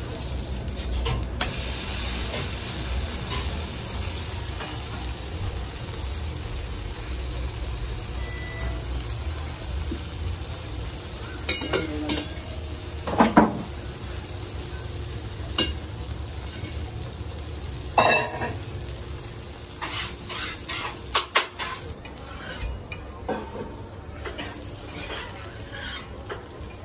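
Rava (semolina) uttapam sizzling as it fries on a hot flat griddle, over a steady low rumble. A metal spatula scrapes and clinks against the griddle a few times in the second half.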